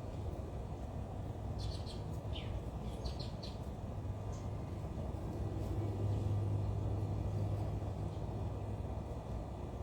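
A few short, high bird chirps in the first few seconds, one falling in pitch, over a steady low rumble that swells a little for a couple of seconds past the middle.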